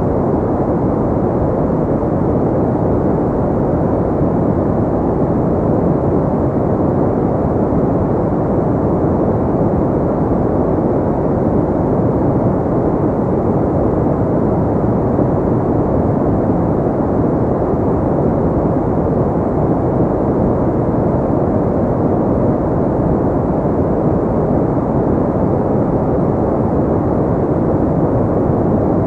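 Steady pink noise: an even, deep hiss that holds at one level without any change, with most of its weight low and little above the treble.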